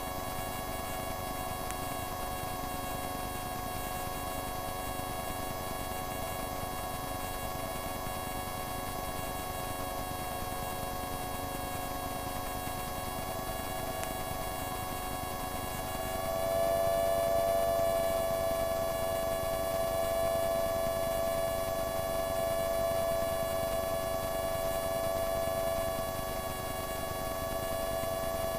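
Light aircraft engine droning steadily as a set of even tones. About sixteen seconds in it gets clearly louder, as power is increased.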